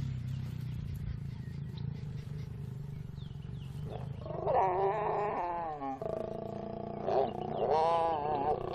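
Lions growling: a low rumble, then two drawn-out, wavering growls, one starting about four and a half seconds in and another near the end.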